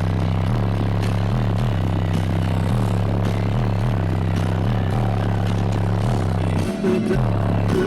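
Loud, deep bass notes from a car audio system's wall of eight Ural Ultimatum 12-inch subwoofers, held steady with a short dip in pitch every half second or so.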